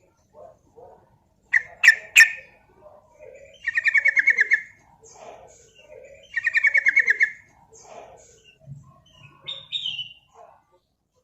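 Sooty-headed bulbul calling: three sharp, loud notes about two seconds in, then two fast chattering trills of about a second each, with softer scattered call notes between them.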